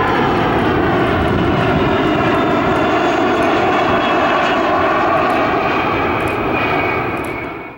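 Loud, steady jet noise from a MiG-17F's turbojet engine, fading out near the end.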